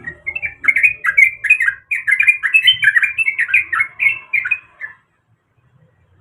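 Sooty-headed bulbul (trucuk) singing a fast, continuous run of short bubbly, warbling notes, which stops about five seconds in.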